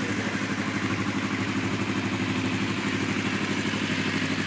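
A 2009 Kawasaki Vulcan 500's carbureted inline two-cylinder engine idling steadily, with an even, fast pulse and no change in pitch.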